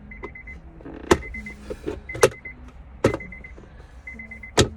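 Sharp clacks and knocks of the Accord's plastic center console trim being worked loose with a screwdriver, four of them about a second apart. Under them a high electronic beep repeats steadily in short groups.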